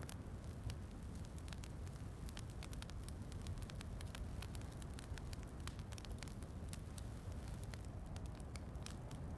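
Wood fire crackling in a fireplace, with frequent irregular sharp pops over a steady low rumble.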